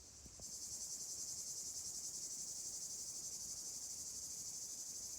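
Insects trilling in a steady high-pitched chorus with a fast, even pulse, starting suddenly about half a second in.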